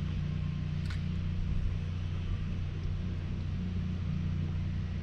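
A boat motor running steadily with a low, even hum, with a single short click about a second in.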